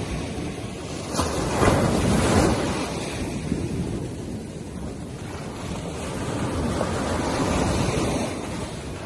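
Ocean surf washing up a sandy beach, with wind buffeting the microphone. Two louder surges of breaking waves, one about a second in and another near the end.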